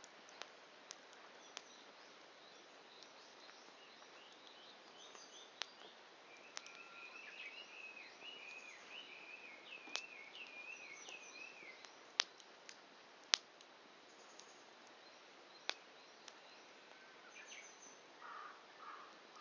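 Wood campfire burning down toward embers, giving scattered sharp pops and crackles over a faint steady hiss, the loudest two pops about 12 and 13 seconds in. A bird sings a warbling phrase in the background from about 7 to 12 seconds in, with faint high chirps elsewhere.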